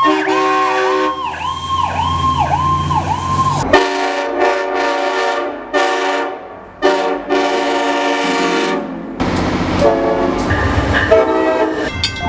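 Fire engine siren wailing up and down in quick cycles, then a series of loud air horn blasts with short breaks between them as the engine responds to a call.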